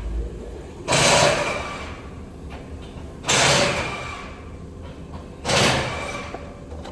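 Three bursts of loud hissing, rushing noise about two and a half seconds apart, each starting sharply and fading over about a second.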